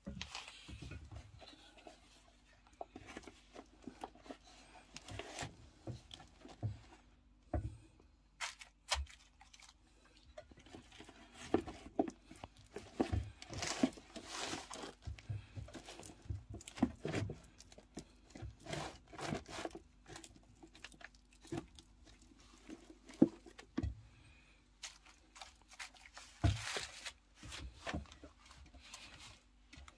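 Boxes being torn apart and crumpled by hand: irregular tearing, crunching and crackling, with short rustles and sharp cracks scattered throughout.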